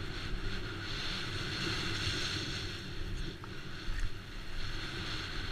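Wind rushing over the microphone of a rider-mounted camera during a fast downhill run: a steady rushing noise with a few faint knocks and rattles from the ride.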